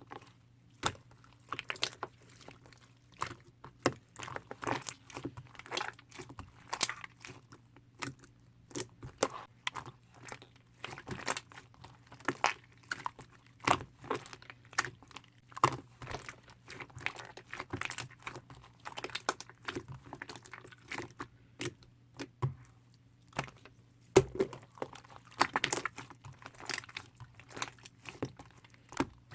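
Hands squishing, poking and stretching a mint-chocolate slime mixed with chocolate-chip bits, making irregular sticky crackles, pops and crunchy clicks.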